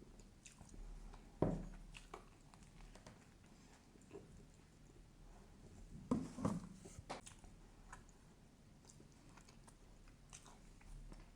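Close-up chewing and biting of a burger, soft wet mouth clicks. Two louder sudden thuds stand out, about a second and a half in and about six seconds in.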